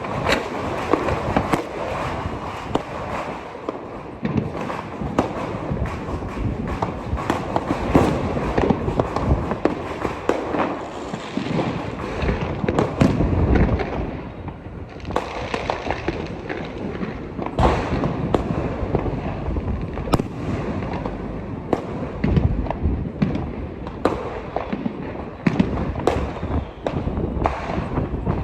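Many fireworks and firecrackers going off at once: a dense, unbroken crackle of pops and bangs, with a few louder bangs standing out here and there.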